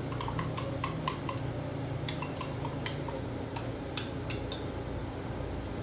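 Spoon stirring coffee in a cup, clinking against the side about four times a second. The stirring stops about three seconds in, followed by a few sharper clinks about a second later.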